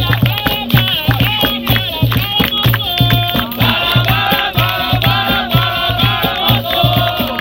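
Capoeira roda music: several voices singing together over a steady drum beat of about three strokes a second, with rattling percussion.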